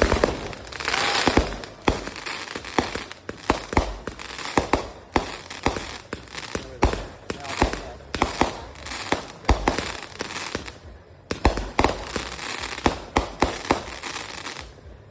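Fireworks going off in a rapid, irregular string of sharp bangs, several a second, over continuous crackling. There is a brief lull about eleven seconds in, and the display dies away near the end.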